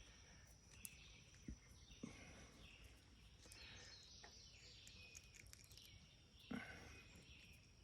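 Near silence: faint outdoor ambience with distant bird chirps and a thin steady high drone, broken by a few soft knocks, the clearest about six and a half seconds in.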